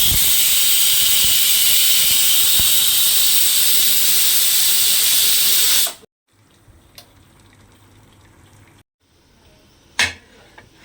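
A loud, steady hiss of rushing water or steam that cuts off abruptly about six seconds in, followed by quiet kitchen background and a single sharp click near the end.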